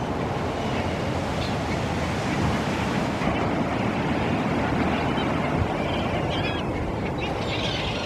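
A steady rush of wind on the microphone and water, with a few short gull calls near the end.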